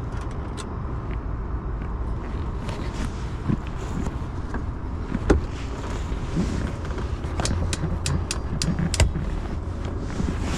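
Sharp metallic clicks and knocks from working on the convertible top's latch and its loose screw, with one louder knock about halfway through and a quick run of clicks near the end, over a steady low rumble.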